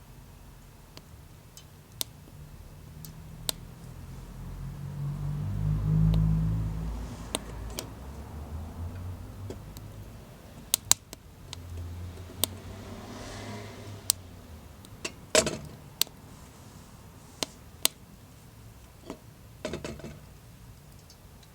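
Small wood fire crackling, with sharp irregular pops from the burning wood. A low rumble swells and fades about six seconds in.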